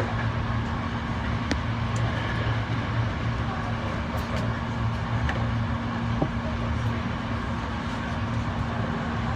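Hankyu electric commuter train running along the track, heard from inside the front of the car: a steady rumble with a constant low hum and a few faint clicks.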